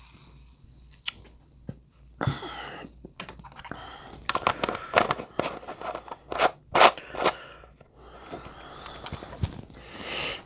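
Crinkling and rustling of something being handled, with sharp clicks and scrapes, starting about two seconds in and easing off after about seven seconds.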